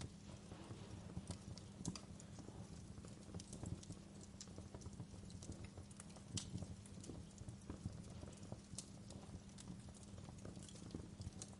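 Wood fire in a fireplace crackling: irregular sharp pops and snaps, several a second at uneven spacing, over a steady low rumble.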